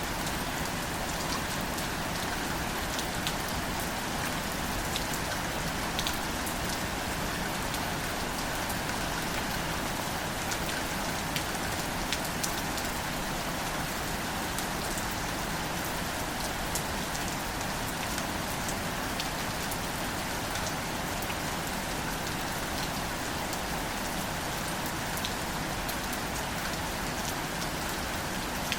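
Gentle, steady rain falling on wildflowers and their leaves, with scattered individual drops ticking close by.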